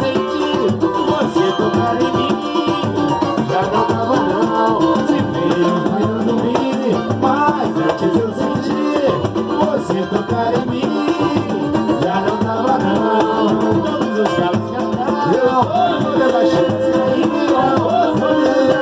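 Samba music: a band playing with a rattling shaker and sung vocal lines.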